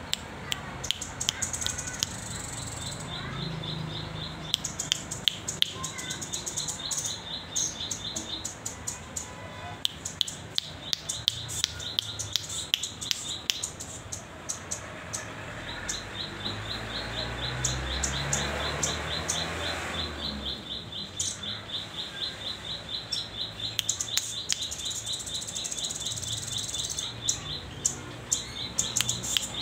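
A young rambatan doraemon, a fledgling still learning its song, calling in long runs of rapid, high, even ticks, with sharper single chips between the runs.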